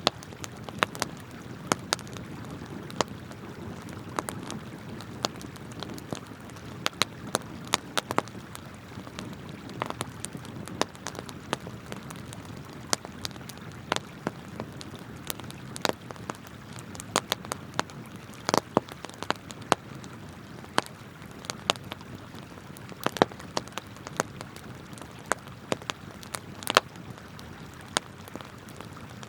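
Wood campfire crackling and popping in sharp, irregular snaps, over the steady rush of a flowing river.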